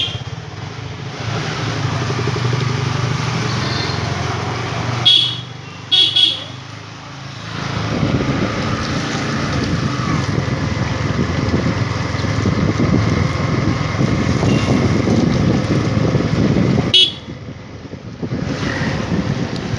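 Motorcycle engine running on the move, with a few short horn beeps: one at the start, a cluster about five to six seconds in, and one more near the end.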